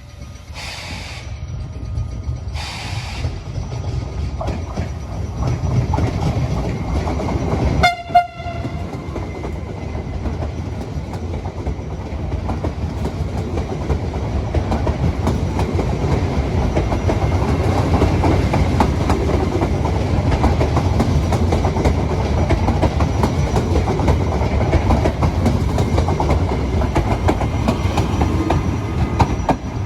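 Train passing on the rails: a short horn blast about eight seconds in, then a long, loud run of wheel and rail rumble with clickety-clack as the cars go by. Two short bursts of noise come near the start.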